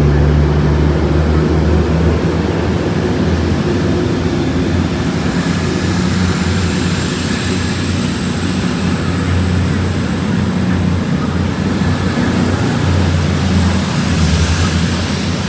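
Railway locomotive running steadily with a deep engine hum, joined about five seconds in by a thin high whine that rises slightly in pitch.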